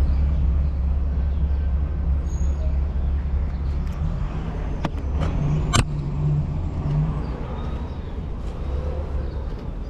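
City street traffic over a steady low rumble, with two sharp clicks about five and six seconds in.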